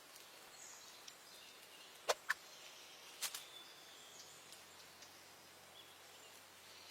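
Quiet outdoor background with a few sharp clicks: two close together about two seconds in and one more about a second later.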